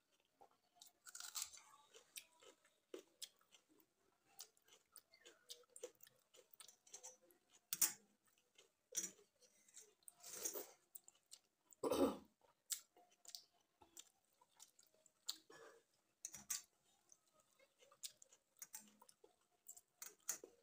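Quiet, close-up chewing and mouth sounds of someone eating water-soaked rice (panta bhat) by hand: irregular wet clicks and smacks with some crunch, loudest about halfway through. Between mouthfuls, fingers squelch the wet rice in a steel bowl.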